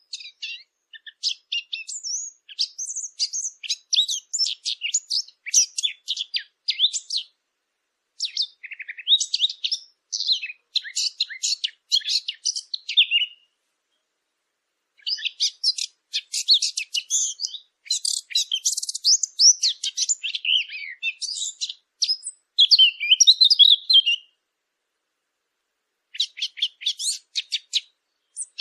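Song of the songbird that hunters call the fig bird: fast, chattering warbled phrases in four long bouts, with short silent gaps between them.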